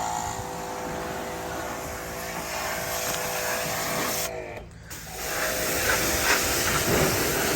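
Pressure washer running with a steady motor whine and spray hiss. A bit past halfway the motor winds down and drops out briefly, then starts again.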